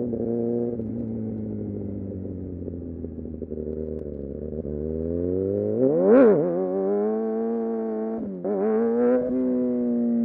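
Kawasaki Ninja ZX-6R's inline-four engine running under riding load: the pitch sags slowly, then the engine revs up sharply to a peak about six seconds in and drops straight back. Near eight seconds it dips briefly, blips twice, and settles at a steady, higher pitch.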